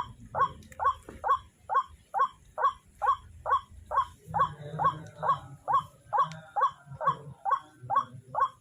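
White-breasted waterhen calling: the same short call repeated evenly about twice a second in a long monotonous run, with other calls overlapping it in the middle.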